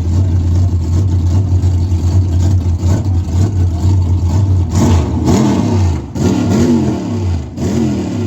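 Very loud Chevy mud-racing truck engine held at high throttle through a mud pit. About five seconds in, it revs up and down several times in quick surges as the truck works through the mud.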